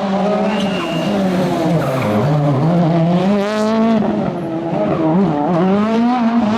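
Rally car engine revving hard, its pitch rising and falling again and again as the car is driven flat out through a stage, lifting and accelerating for the corners.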